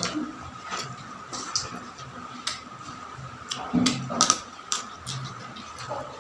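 Close-up eating sounds: irregular crunching and wet clicking of chewing, with a loud cluster of crunches about four seconds in.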